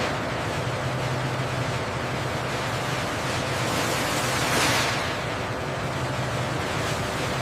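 Steady rushing machine noise with a low hum underneath, swelling briefly about four and a half seconds in.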